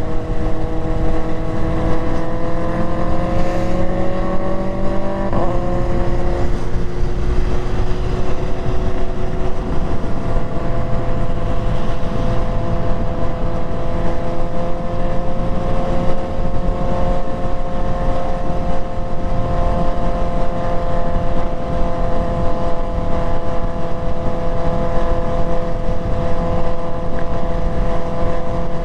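Motorcycle engine heard from the bike while riding: it pulls up through the revs, drops sharply at a gear change about five seconds in, then runs at a steady speed, under heavy wind and road rush.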